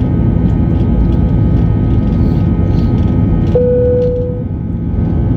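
Airbus A320 cabin noise in the climb: a loud, steady rumble of its IAE V2500 engines and airflow, with several thin steady engine tones above it. A single cabin chime sounds about three and a half seconds in and dies away within a second.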